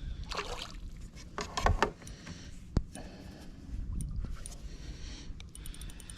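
Water splashing and sloshing around a kayak in irregular bursts, with a sharp click near the middle.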